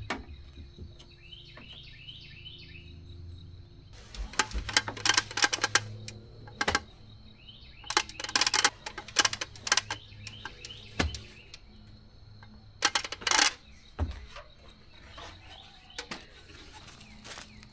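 Scattered sharp clicks and clatter coming in irregular clusters, with a few faint bird chirps in the background and a low steady hum.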